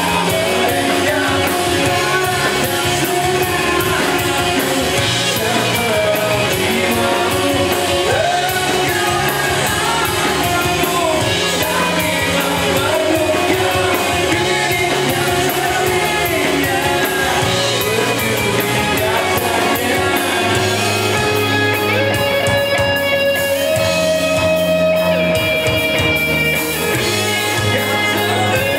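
A rock song with a singer over guitar-driven band backing.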